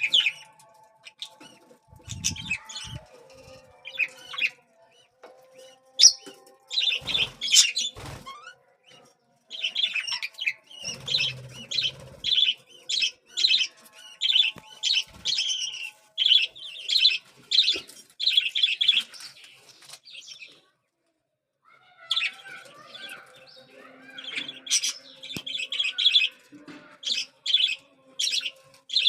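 Budgerigar chicks giving rapid, repeated begging chirps at feeding time, about two a second in long runs, with a short break about two-thirds of the way through. A few low knocks come in the first several seconds.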